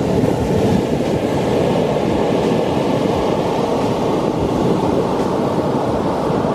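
Loud, steady rush of ocean surf, with no music or voice over it.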